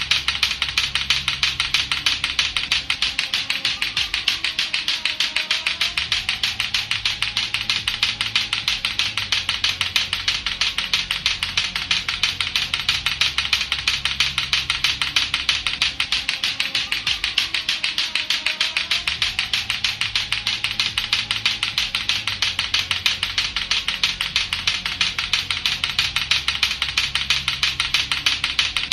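Lato-lato clacker toy, its two hard balls on a string knocking together in a rapid, even run of sharp clacks that never breaks.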